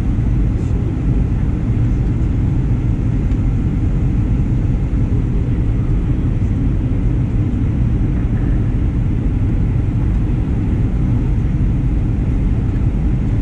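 Steady low rumble of a Boeing 737-900ER heard from inside the passenger cabin: engine and airflow noise.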